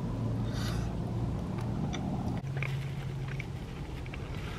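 A person chewing a mouthful of cheese-topped fries, with small wet mouth clicks, over the steady low hum of the car's interior; the hum shifts slightly in pitch about halfway through.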